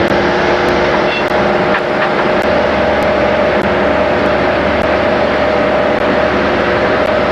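Motorboat engine running steadily at speed, with the rush of wind and water over the hull. The engine's tone holds constant.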